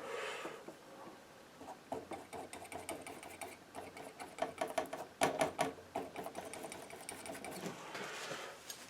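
Palette knife dabbing and scraping oil paint onto the canvas: a quick, uneven run of small clicks and scrapes, busiest about halfway through.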